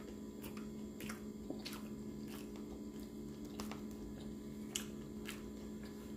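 Close-up chewing of a mouthful of burrito, with wet mouth clicks and smacks coming irregularly about once every half second to second. A steady low hum runs underneath.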